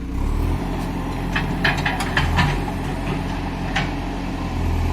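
Heavy diesel engine running steadily, with a quick series of sharp metal knocks about a third of the way in and one more knock near the end.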